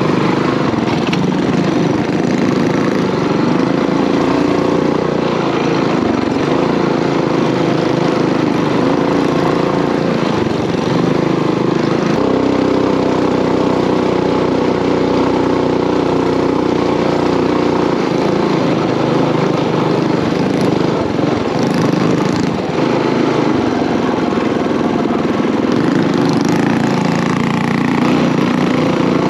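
Mini bike's small single-cylinder engine running hard under load while riding uphill, its pitch shifting now and then as the throttle and load change.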